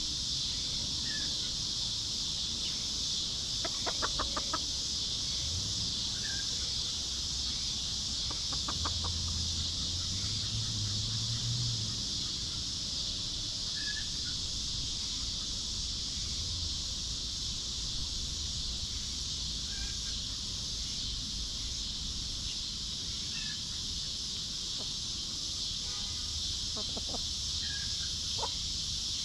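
Hens clucking in two short bouts of rapid clucks, a few seconds apart, with scattered short chirps from small birds. A steady high hiss runs underneath.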